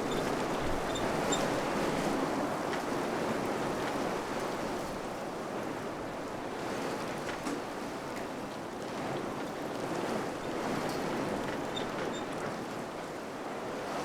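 Wind blowing steadily, a rushing noise that swells and eases gently, with a few faint high ticks here and there.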